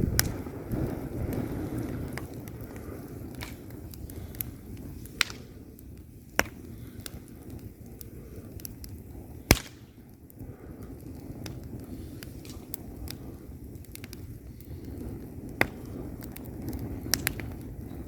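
Wood logs burning in a fireplace: a steady low rumble of flames with scattered crackles and a few sharp pops, the loudest about halfway through.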